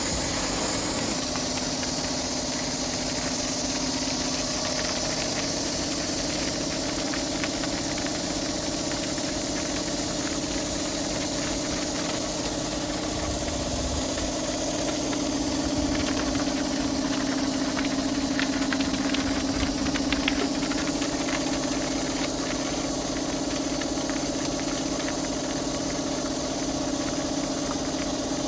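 Pressure washer running: a steady motor hum under the hiss of the high-pressure water spray, with some crackling patches near the middle.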